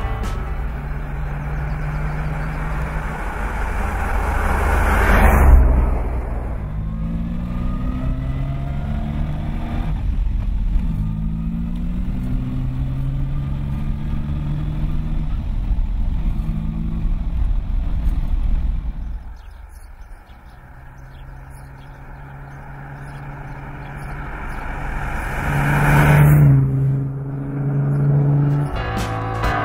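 1967 Aston Martin DB6 Vantage's straight-six engine accelerating hard. It builds to a loud peak about five seconds in, runs on with its pitch changing, falls away around twenty seconds in, and swells to another loud peak near the end.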